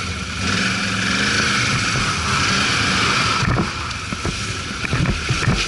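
ATV (quad bike) engine running under way, with a loud hissing rush from about half a second to three and a half seconds in, then a few knocks near the end.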